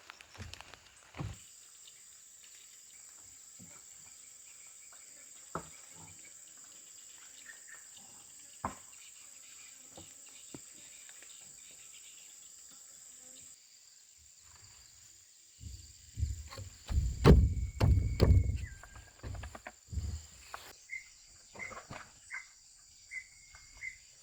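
Steady high-pitched drone of insects, with scattered small knocks. Partway through comes a loud few seconds of thumping and rustling handling noise. Near the end, a run of short, evenly spaced chirps.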